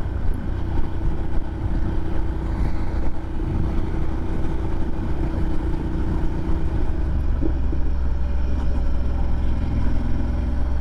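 Adventure motorcycle running steadily at cruising speed, a continuous low drone with a steady hum.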